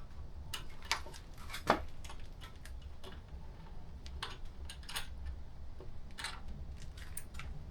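Scattered light clicks and metallic clinks of screws, washers and hand tools being handled while parts are taken off a motorcycle, with one sharper click a little under two seconds in. A steady low hum runs underneath.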